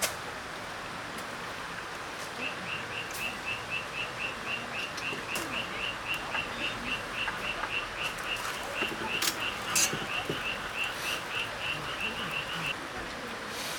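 A cricket chirping in a steady, even run of short chirps, about four to five a second, over a faint hiss of background insects. Near the end the chirping stops. A few sharp clicks stand out about two-thirds of the way through.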